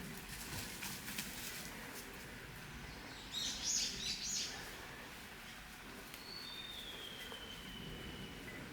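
Wild birds calling: a short burst of chirps about three seconds in, then a single thin whistle sliding down in pitch near the end.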